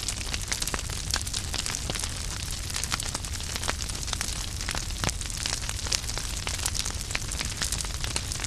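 Wood fire crackling: many sharp pops and snaps of uneven strength over a steady low rumble of burning.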